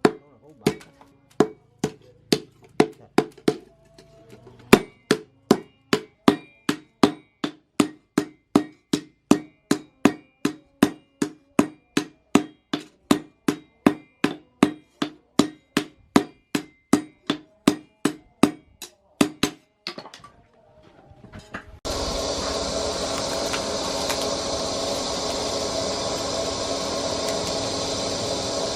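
Hammer forging steel cut from a chainsaw bar: steady, ringing metal strikes at about two a second. They stop about twenty seconds in, and a steady machine whir starts a couple of seconds later.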